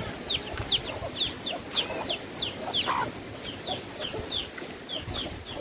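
A bird giving a rapid series of short, high chirps, each falling in pitch, about three or four a second, over a low rumble of wind.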